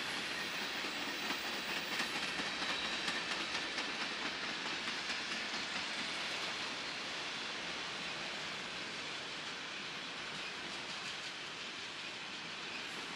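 Train cars rolling past on the rails with a steady rushing hiss, the wheels clicking over rail joints in a regular rhythm through the first half. The sound slowly eases toward the end.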